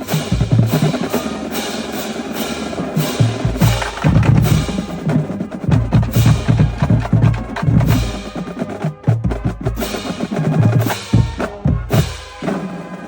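Marching band playing a percussion-heavy passage: a steady run of snare strokes over pounding bass drums.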